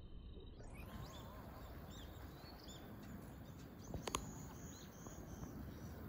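Faint outdoor background rumble with a few short, high bird chirps scattered through it, and one sharp click about four seconds in.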